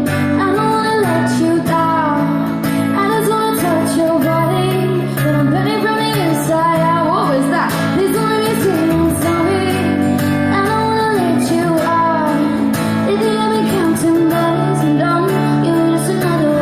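A woman singing a wavering melody live over sustained acoustic guitar chords.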